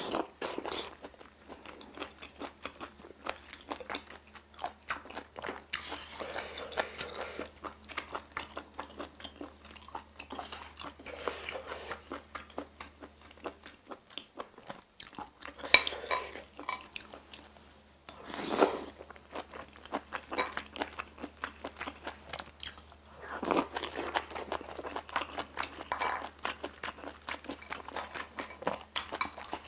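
A person chewing and biting mouthfuls of spicy stir-fried octopus and rice, with many small wet mouth clicks. Two sharper, louder clicks come a little past halfway.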